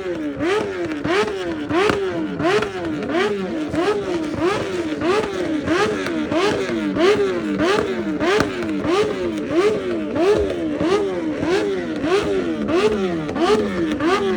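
A motorcycle engine revving up again and again, about one and a half quick rises a second, each rise cut off sharply with a crack.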